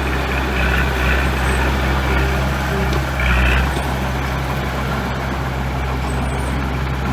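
Heavy diesel engine of construction machinery running steadily, with a couple of brief noisy bursts in the first half. The deepest part of the engine sound drops away a little past halfway.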